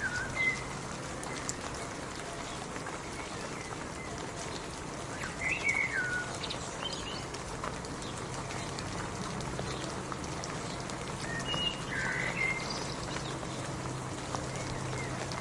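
Steady rain falling, with short bird chirps now and then: near the start, about five seconds in, around eleven to twelve seconds, and again near the end.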